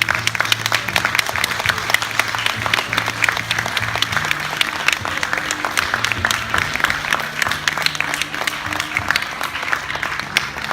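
Audience applauding with dense, fast clapping, with music playing underneath.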